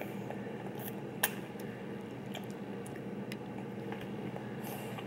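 Small, scattered clicks and taps over a steady low hum, with one sharper click about a second in.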